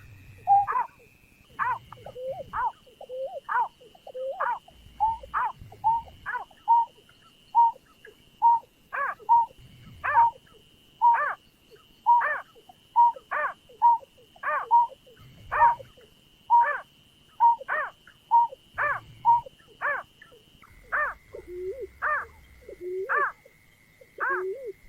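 A bird named as the nhát (snipe) calling over and over, with short downward-sliding notes about one to two a second. A steady high tone runs underneath and drops a little in pitch about twenty seconds in.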